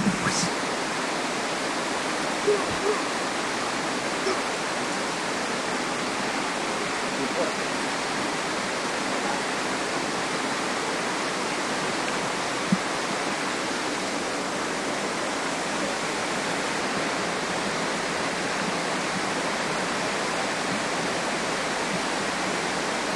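Waterfall's water rushing in a steady, unbroken roar, with one short sharp click about halfway through.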